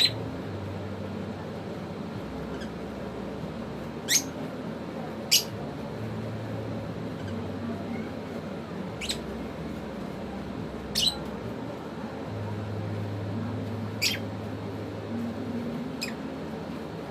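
African lovebirds giving short, shrill chirps, about six spread out one at a time, over a steady low hum.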